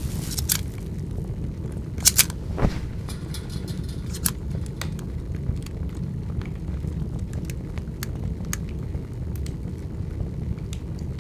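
Large open fire burning, with a steady low rumble and scattered crackles and pops, including a cluster of sharp pops about two seconds in.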